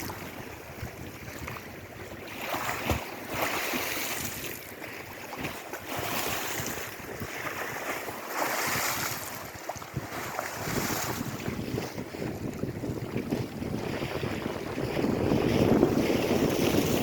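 Lake Erie waves breaking and washing in, a swelling hiss every few seconds, with wind rumbling on the microphone that grows stronger near the end.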